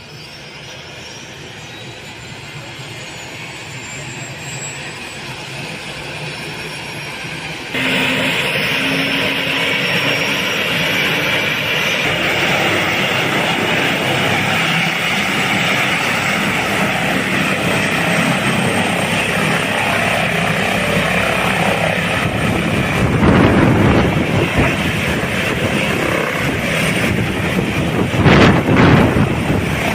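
Airbus H145 helicopter's twin turbine engines and rotor running up for takeoff. A high turbine whine rises in pitch and grows louder, then about eight seconds in the sound jumps to a much louder, steady rush of turbine and rotor noise. Near the end it comes in heavy surges.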